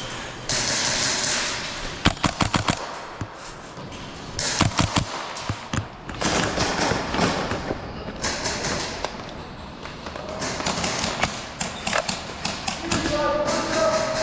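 Airsoft guns firing in quick bursts of sharp cracks and thuds, with BBs striking: a burst about two seconds in, another near five seconds, and more scattered hits after eleven seconds.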